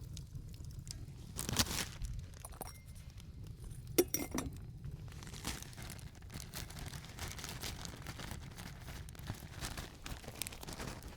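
Light clinks and knocks of hard objects being handled. The loudest, about four seconds in, is a sharp clink that rings briefly.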